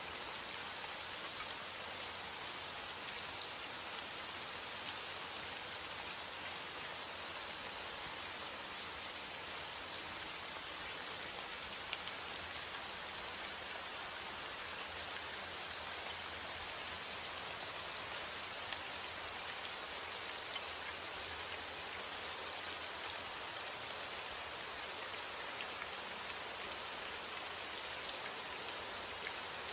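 Steady heavy rain: a dense, even hiss, with many small drop ticks scattered through it.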